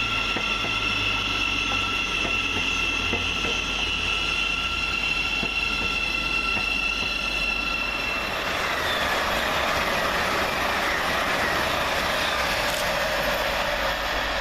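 Electric multiple-unit passenger trains passing on the main line: a steady whine made of several held high tones for the first half, giving way about eight seconds in to the even rushing noise of a train going by.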